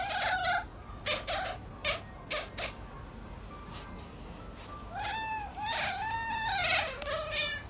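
A cat meowing: a short call at the start, a few sharp clicks, then a run of four or five drawn-out meows that rise and fall in pitch in the second half.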